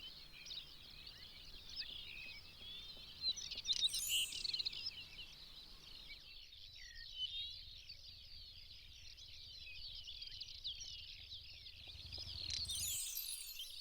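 Dense chorus of many small birds chirping and twittering, with a brief high rattling burst about four seconds in and another near the end.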